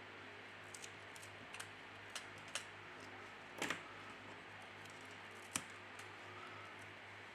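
Faint, scattered clicks and taps of small tools and plastic phone parts being handled, the loudest a double click about three and a half seconds in and a sharp tick a couple of seconds later, over a low steady hum.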